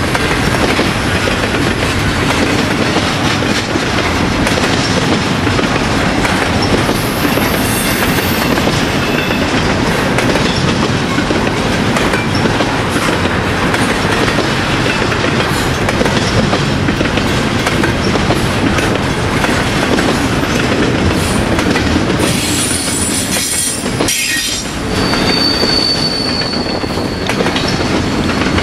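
Double-stack intermodal well cars of a long freight train rolling past, steel wheels rumbling and clacking over the rail. Brief high wheel squeals come partway through, and a steady high squeal runs near the end.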